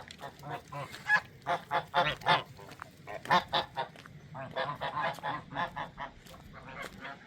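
Farm birds calling: many short calls in quick runs, loudest from about one to two and a half seconds in and again just after three seconds, with another run near five seconds.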